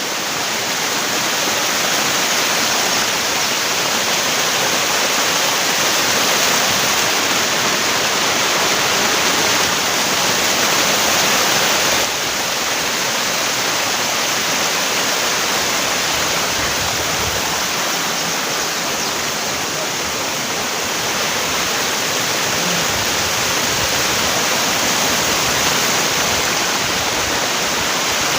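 Waterfall fed through a pipe, its water pouring and splashing in a loud, steady rush close by. The level drops slightly about twelve seconds in.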